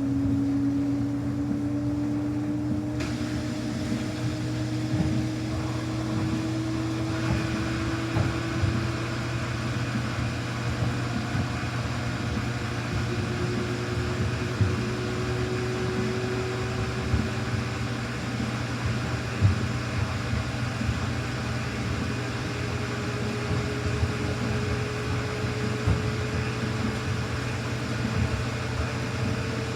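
Samsung washing machine spinning a load of towels: the motor's whine climbs slowly and steadily in pitch as the drum speeds up, over a constant low hum, with occasional light knocks from the drum.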